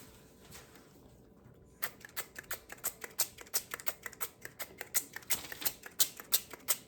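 Rapid, irregular clicking and ticking, several clicks a second, starting about two seconds in: salt being sprinkled over a pan of oiled vegetables.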